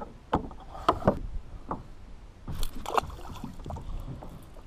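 Scattered light knocks and taps of fishing tackle being handled on a plastic sit-on-top kayak, with a brief rustling clatter about halfway through, over a low wind rumble on the microphone.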